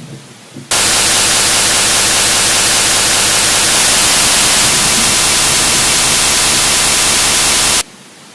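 Very loud, even static hiss like white noise. It switches on abruptly about a second in and cuts off just as abruptly about half a second before the end.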